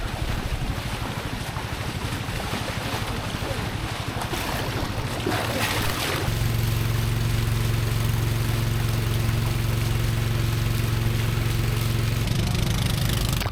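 Rushing water and wind noise for about six seconds, then a boat's motor running steadily.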